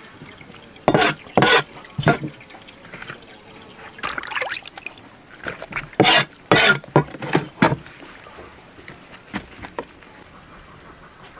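Water splashing in a series of short, sharp bursts, about eight in all, the loudest around one second in and again around six seconds in.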